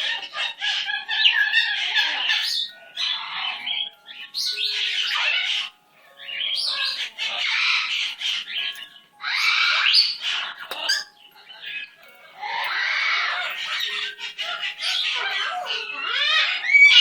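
Pet parrot squawking in a string of harsh, raspy calls, each lasting one to two seconds with short pauses between them, ending with a few quick rising whistle-like calls.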